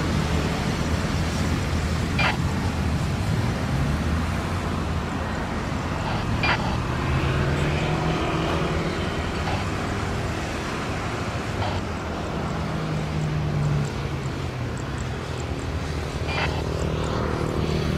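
Steady low rumble of running engines, like road traffic, with a wavering hum and a few brief clicks.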